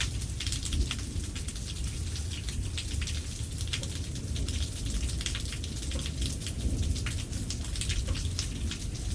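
Rain falling during a thunderstorm, with many single drops ticking sharply close by over a steady low rumble.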